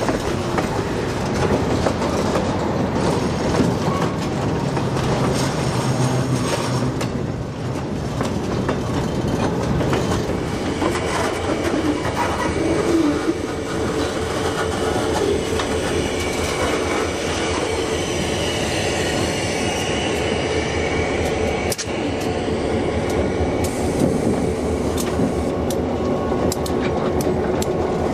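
Freight train of boxcars and open-top hoppers rolling past, its wheels clattering over the rail joints. A thin, high wheel squeal comes in over the middle part.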